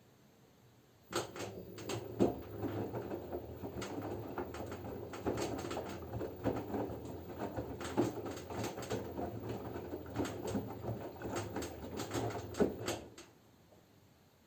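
LG F10B9LD front-loading washing machine in its wash phase: the drum turns for about twelve seconds with a low motor hum while the wet laundry and water slosh and knock irregularly inside, then it stops for a rest. This is the usual tumble-and-pause rhythm of a front-loader's wash.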